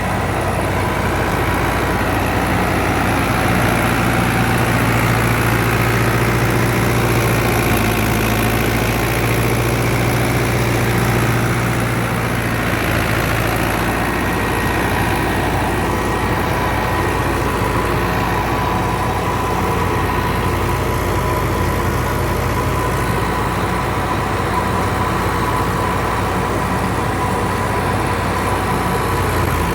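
Fiat 640 tractor's diesel engine running steadily under load while driving a wheat thresher, with the thresher's machinery running alongside as one continuous machine drone.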